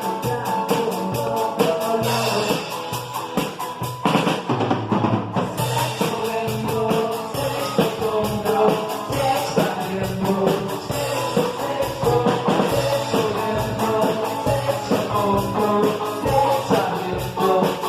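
Rock band playing a song: drum kit with a steady cymbal beat, guitar and singing. The cymbals drop out briefly about four seconds in, then come back.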